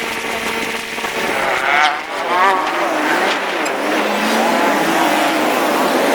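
Motorcycle engine running and revving in traffic, its pitch rising and falling throughout.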